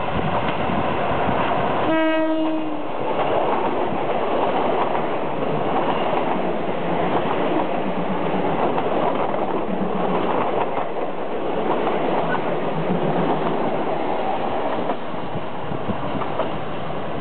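Thai diesel railcar passenger train sounding one short horn blast about two seconds in, then running past close by with a steady noise of engines and wheels on the rails.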